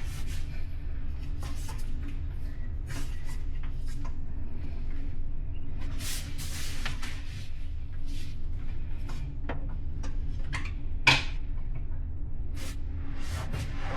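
Steady low rumble of a ferry under way, heard inside the cabin, with scattered creaks and light knocks from the cabin fittings and a sharper knock about eleven seconds in.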